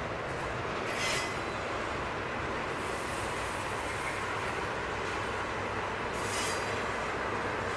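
Double-stack intermodal container cars rolling past, their wheels making a steady rumble on the rails. Two brief high-pitched wheel squeals cut through, about a second in and again about six seconds in.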